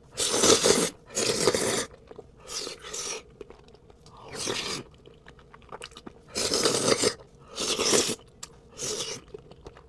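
Close-miked eating of stew-type ramen: about seven separate bursts of wet mouth noise, each under a second, with short pauses between them.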